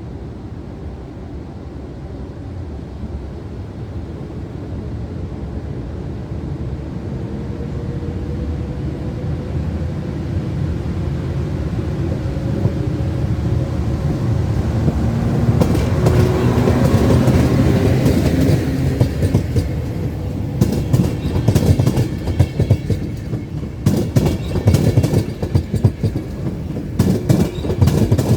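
Polish EP09 electric locomotive hauling a passenger train, growing louder as it approaches and passes, with a slight falling hum from its traction equipment. About two-thirds of the way through, the coaches follow with a rapid clickety-clack of wheels over rail joints.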